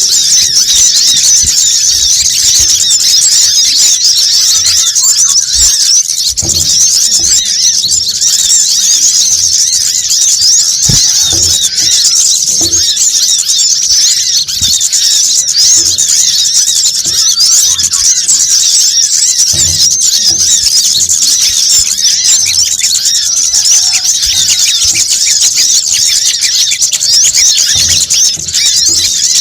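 A dense, unbroken chorus of high-pitched chirps and twitters from many small birds, sunbirds among them, as used for a bird-trapping lure call.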